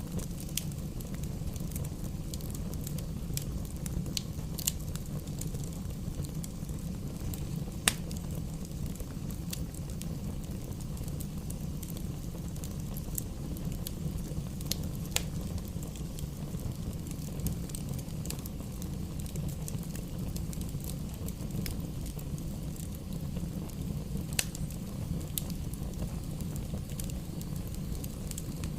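Wood fire burning in a fireplace: a steady low rumble of flame with scattered sharp pops and crackles, the loudest about eight seconds in and again near the end.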